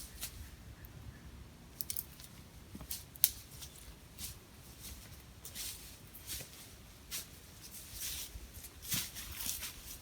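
Footsteps crunching through dry leaves and undergrowth in irregular, slow steps, with a sharper snap about three seconds in.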